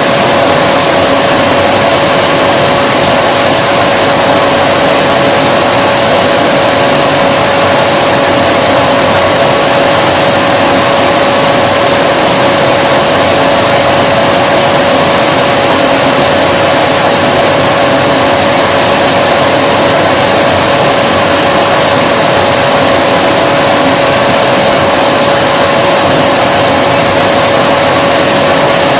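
Vacuum cleaner running at a steady speed: an even rushing noise with a constant hum, never changing in pitch or level.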